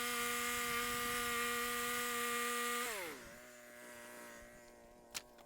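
Electric drill motor whining at a steady high speed, then slowing about three seconds in and running on more quietly at a lower pitch; a sharp click near the end.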